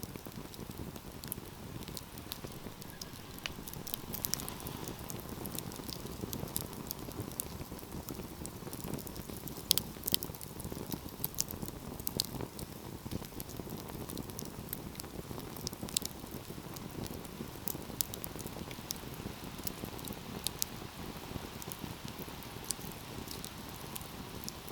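Wood fire burning with a steady low rush of flames and irregular sharp crackles and pops, the loudest pop about ten seconds in.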